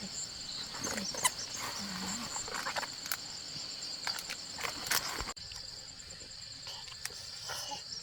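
Insects trilling steadily at a high pitch, with scattered faint clicks and knocks.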